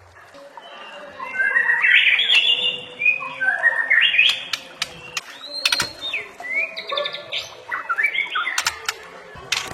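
White-rumped shama singing a varied, chattering song of quick gliding chirps and warbles, laced with mimicked calls of other birds, with a few sharp clicks among them.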